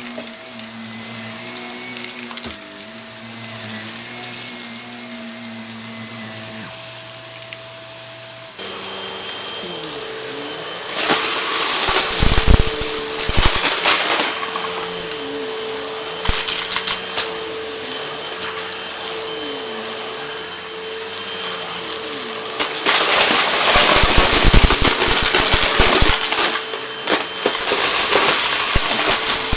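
A vacuum cleaner's motor runs steadily, its hum changing pitch about a third of the way in. Loud crunching and crackling follows in bursts as debris is sucked up, with a long stretch near the end.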